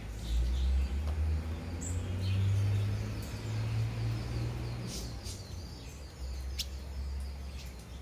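Short, high chirps from a small bird at its hanging nest, scattered and clustered about five to seven seconds in, over a steady low rumble.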